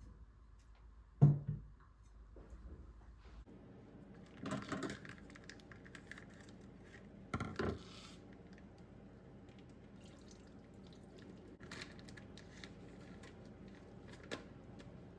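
Kitchen food-prep handling sounds: a dull thump about a second in, then two short bursts of louder noise and scattered light clicks.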